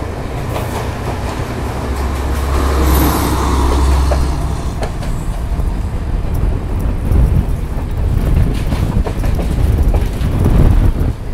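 Passenger train running along the track, heard from an open carriage window: a steady low rumble of the wheels with a few sharp clicks over the rail joints, and strong wind buffeting the microphone.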